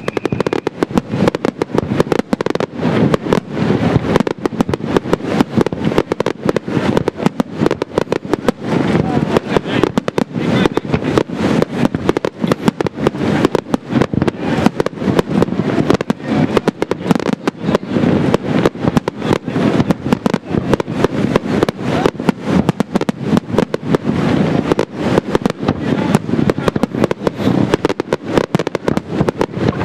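Display fireworks firing a continuous, dense barrage: shells bursting and stars crackling, many bangs a second with no pause.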